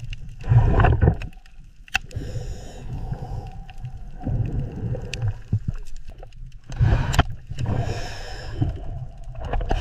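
Low rumbling, gurgling water sound, offered as the sound of a sea turtle, with two louder surges: about half a second in and again around seven seconds.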